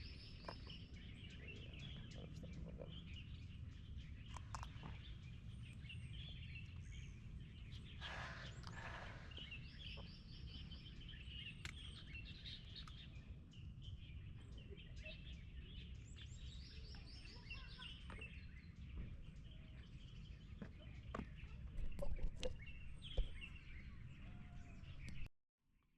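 Wild birds singing outdoors: repeated short trilled phrases and scattered chirps over a steady low rumble. A few louder knocks come near the end, then the sound briefly cuts out.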